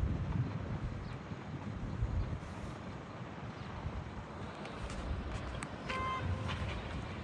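A regional train approaching with a low rumble, and a short horn toot about six seconds in.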